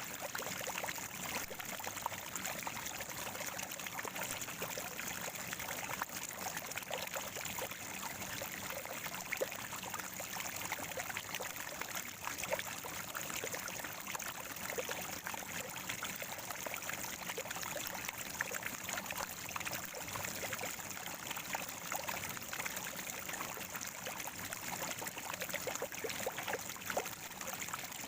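Spring water gurgling and trickling steadily, with a dense patter of small splashes.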